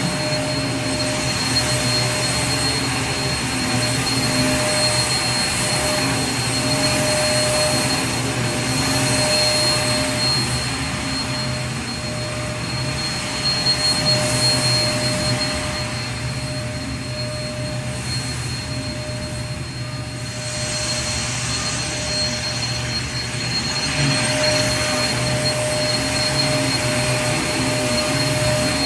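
Vacuum cleaner running continuously: a steady motor hum and whine over a rushing air noise. About halfway through, the sound drops a little and turns duller for several seconds, then comes back to full.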